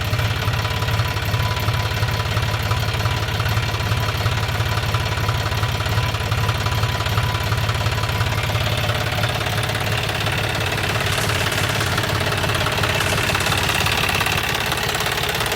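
Small diesel engine running steadily at idle with a fast, even knock, cutting off suddenly at the end.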